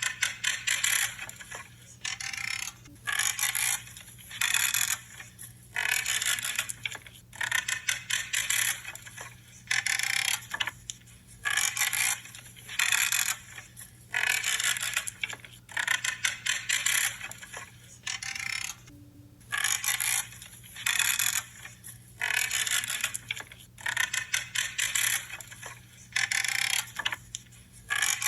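Shears cutting through branches, one short crunching, creaking cut after another, about one every second or so with brief pauses between them.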